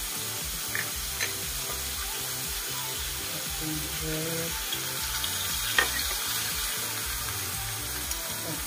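Minced pork sizzling as it is stir-fried in a metal wok with a wooden spatula, with a few sharp clicks of the spatula against the wok.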